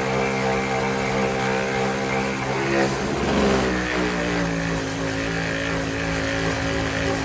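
A power tool's motor running steadily. About three seconds in its pitch drops, as if the tool is pressed into the work.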